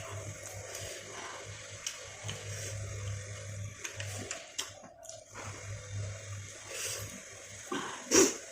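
Close-up eating sounds: wet chewing and lip smacking with scattered clicks, and a louder smack near the end. A low hum comes and goes underneath.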